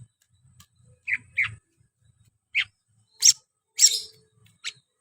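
Green leafbird (cucak ijo) singing in short, sharp, high phrases, about six of them spaced apart, some sliding down in pitch.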